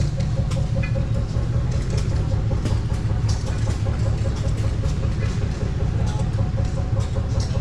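An engine running steadily at idle with an even, regular beat.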